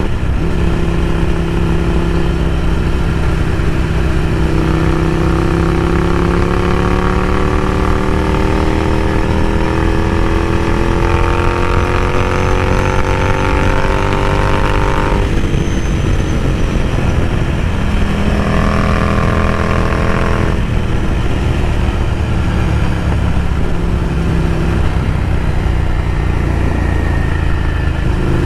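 Ducati Scrambler Café Racer's air-cooled L-twin running through a Vance & Hines slip-on exhaust while riding. The engine pitch climbs steadily under acceleration, with sudden drops about halfway through and again some seconds later, as the rider shifts up.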